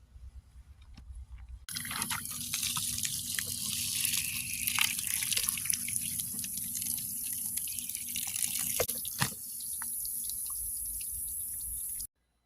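Running water splashing, with many small knocks and drips through it; it starts abruptly and cuts off suddenly near the end.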